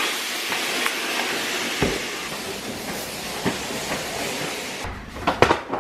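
Heavy rain pouring down, a steady, even hiss that stops suddenly about five seconds in, followed by a few sharp clicks.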